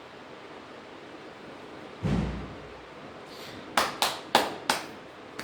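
A dull thump, then four quick sharp knocks about a third of a second apart.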